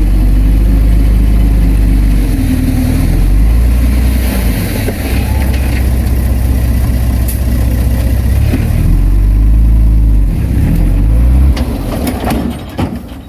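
Heavy diesel engine of earthmoving machinery working close by, its note rising and falling as the load changes, then dropping away near the end.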